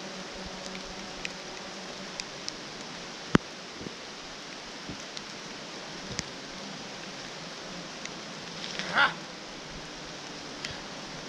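Steady rain hiss with scattered drops ticking, a single sharp click a little over three seconds in, and a brief louder rustle near the end.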